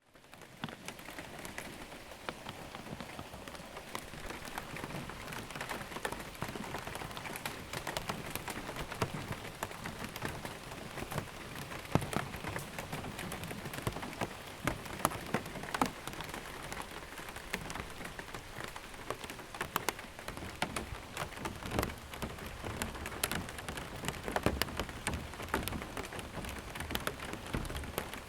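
Steady rain drumming on a plastic roof, heard from underneath, with a dense patter and many individual sharp drop hits standing out. It fades in at the very start.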